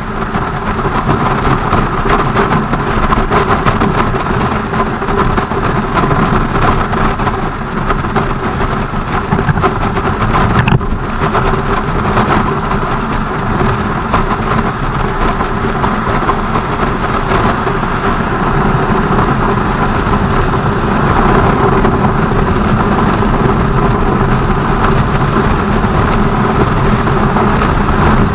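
BMW R 1200 GS flat-twin motorcycle being ridden in the rain: steady engine hum mixed with wind and wet-road noise, with a momentary break about eleven seconds in.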